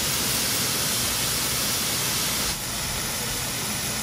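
Ground meat sizzling steadily as it fries in a hot nonstick pan, slightly quieter from about two and a half seconds in.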